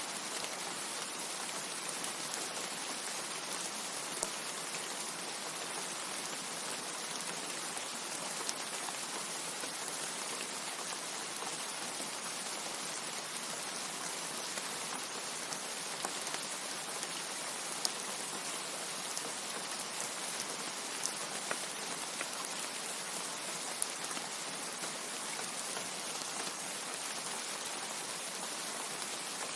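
Steady rain falling, an even hiss with a few louder single drops standing out now and then.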